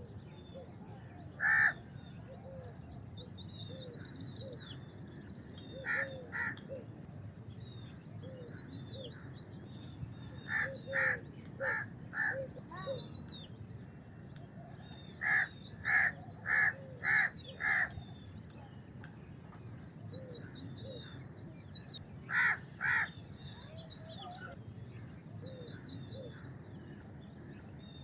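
House crows cawing in short runs of quick caws, sometimes singly, more often four to six in a row, with small birds chirping and twittering at a high pitch throughout.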